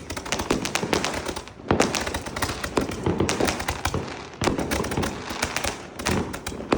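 Fireworks and firecrackers going off in rapid, overlapping succession: a dense crackle of many sharp bangs, with a brief lull about a second and a half in.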